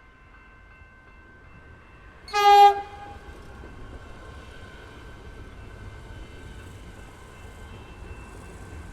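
A Melbourne suburban electric train's horn gives one short, loud blast about two and a half seconds in, over the steady ringing of the level crossing bells. After it the train's running noise builds as it approaches.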